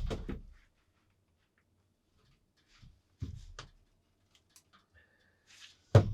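A few scattered knocks and thuds of work indoors, the loudest near the end, with a brief squeak just before it.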